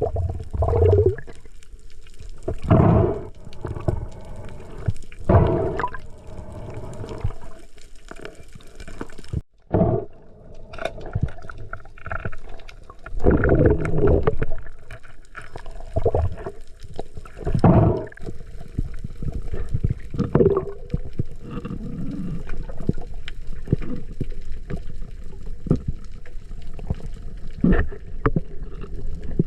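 Water gurgling and sloshing, in loud surges every two to three seconds.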